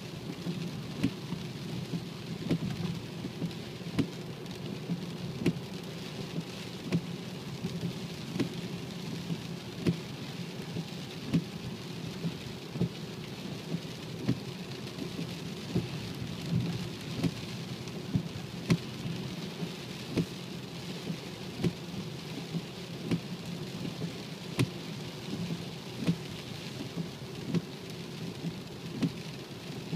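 BMW 535d running with a steady low drone, overlaid by many sharp, irregular ticks about once or twice a second.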